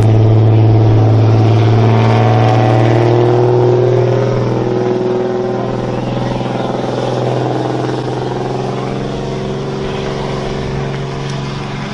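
Engine of a pulling vehicle running steadily under load, a sustained low drone that gets somewhat quieter after about four seconds.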